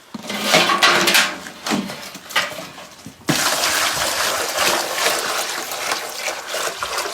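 Water splashing in uneven bursts, then running in a steady gush from about three seconds in.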